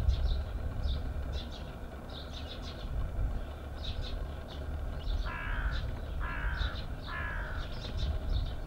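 Birds calling outdoors: repeated short high chirps throughout, then three drawn-out calls about a second apart past the middle, over a steady low rumble.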